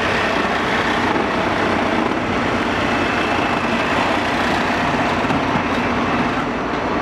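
Steady noise of heavy vehicle engines idling, even and unbroken throughout.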